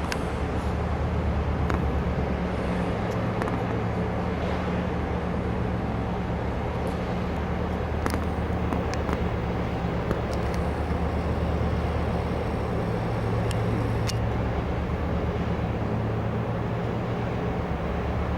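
Steady low engine drone of a ship passing on the river, with a constant hum and a few faint clicks over outdoor background noise.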